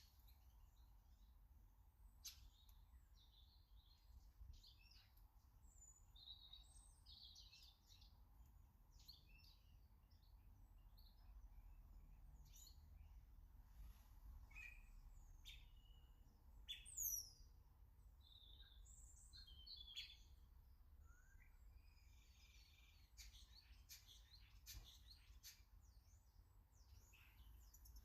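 Small garden birds chirping and calling faintly, with many short, high chirps throughout and one louder call sweeping downward in pitch about 17 seconds in. A few sharp clicks are mixed in.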